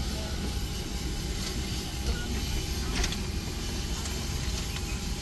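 Steady cabin background of a parked ATR 72-600 turboprop airliner: a low rumble and hiss with a thin high whine, and a few faint clicks.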